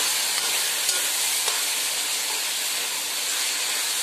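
Chopped taro stems and roselle leaves sizzling steadily in a hot metal wok, with a metal spatula stirring and scraping against the pan a few times.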